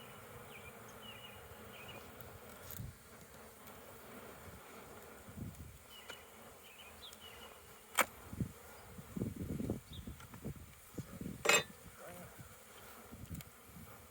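Honeybees buzzing around an open hive, a steady hum that swells now and then, with two sharp knocks in the second half.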